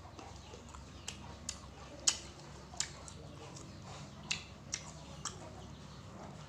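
Close-up eating sounds: irregular, sharp, wet clicks and crunches of biting and chewing sour fruit, about seven in all, the loudest about two seconds in.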